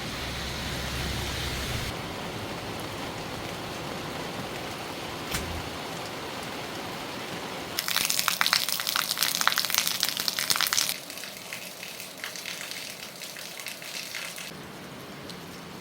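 Rain falling steadily, with a louder patch of dense crackling raindrops about halfway through that eases off in steps.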